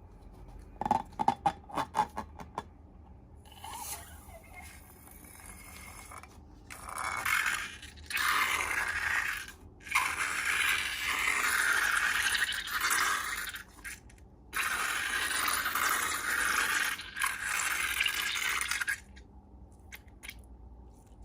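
Slime-making sounds: a quick run of sharp clicks about a second in, then long bouts of scraping and stirring noise with short pauses.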